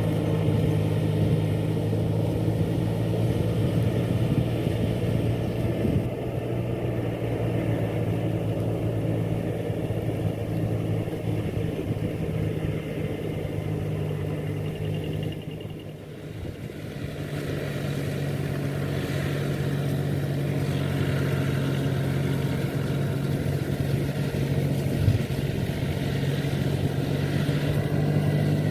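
Four-wheel rice-field tractor engine running steadily. The sound briefly drops away about halfway through, then comes back at a slightly different pitch.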